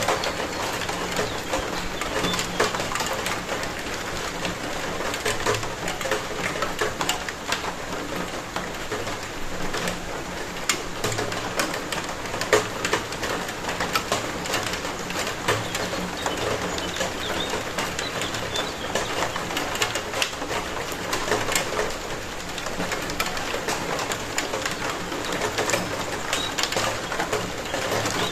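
Steady rain falling, with individual drops ticking on a hard surface, and low repeated calls sounding now and then behind it.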